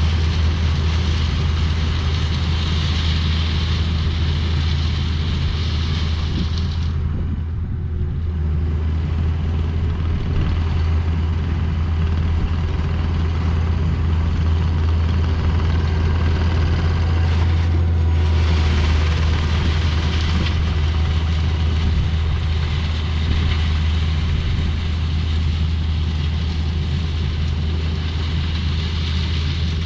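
Heavy diesel equipment engine running steadily under work, with a strong constant low drone and engine noise over it.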